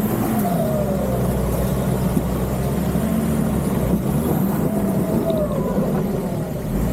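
An off-road 4x4's engine runs steadily at moderate revs, the pitch rising and falling a little as it crawls. Twice a higher whine falls in pitch, once near the start and once about five seconds in.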